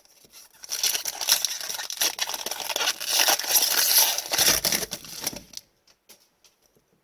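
A hockey card pack's wrapper being torn open and crinkled by hand: a dense crackling that lasts about five seconds, then stops.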